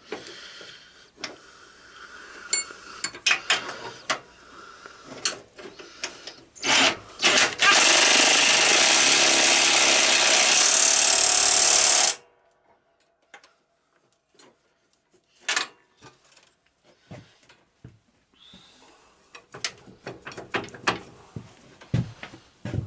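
Scattered clanks and clicks of hand tools, then a power tool runs loudly for about four and a half seconds and stops suddenly, driving a bolt down on the steering box mounting.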